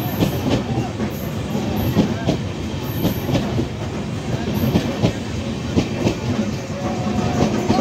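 Passenger train running on the rails: a steady rumble with repeated, irregular clacks as the wheels pass over rail joints.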